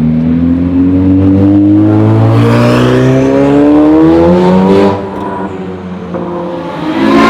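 Ferrari 488 Pista's twin-turbo V8 accelerating, its pitch rising steadily for about five seconds before the throttle is lifted. A sudden loud burst comes near the end.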